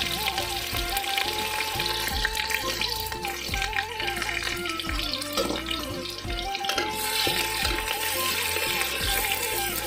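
Sliced onions sizzling in hot oil in an aluminium pot, a steady frying hiss, under background music with a melody and a steady beat.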